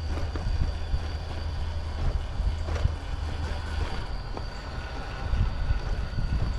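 RC rock crawler driving over rock: a steady high electric-motor whine with small clatters and scrabbling from the tyres and chassis on stone. Low wind rumble on the microphone.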